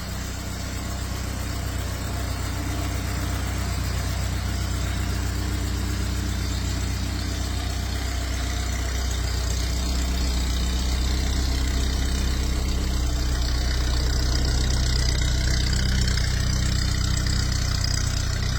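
A car engine idling steadily, growing slightly louder over the stretch.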